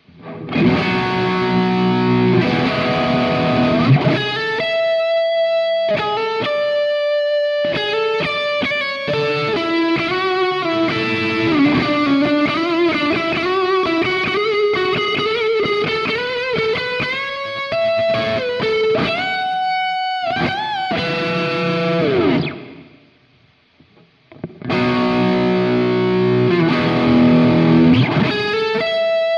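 Electric guitar playing a song's instrumental interlude in A: full chords open it, then a single-note lead melody with gliding bends. The playing stops briefly about 23 seconds in, then the chords start again.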